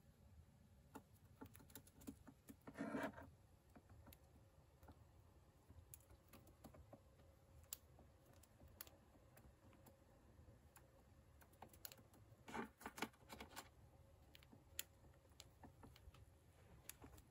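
Near silence broken by faint, scattered small clicks and scratches, with a brief louder rustle about three seconds in and another short cluster of clicks around thirteen seconds in.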